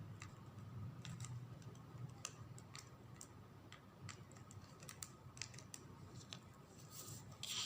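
Faint scattered light clicks and taps of small beads and craft pieces being handled while beads are glued onto a ribbon flower, with a short rustle near the end.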